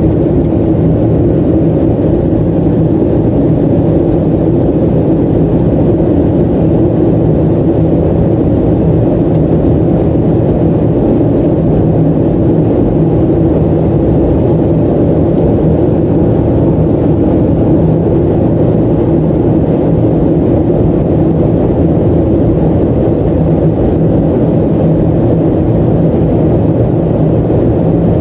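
Steady drone of a Boeing 737-300 in flight, heard inside the cabin: its CFM56-3 jet engines and the rush of air along the fuselage, a deep even noise with a low hum running through it.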